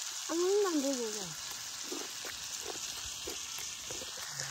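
Food frying in a pan: a steady hiss with many small crackles. About a second in, a brief drawn-out voice rises and falls in pitch.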